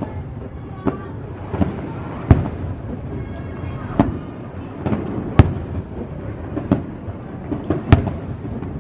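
Fireworks shells bursting overhead: a string of sharp bangs at irregular intervals, roughly one every half-second to a second and a half, the loudest about halfway through.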